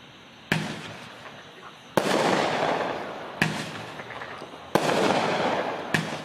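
A 39-shot 500-gram consumer fireworks cake firing, five shots in all, about one every second and a half: each a sharp report followed by the crackle and hiss of its break fading away.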